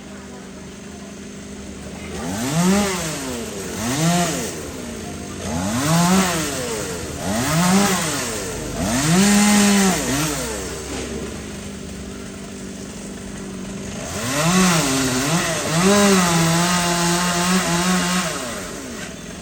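Two-stroke chainsaw engine revved in short bursts over its idle, its pitch rising and falling about five times, then after a pause twice more, with the last rev held for a couple of seconds.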